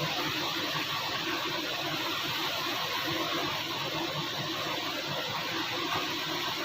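2014 Kia Optima engine running steadily with an internal knock, the fault that calls for an engine overhaul.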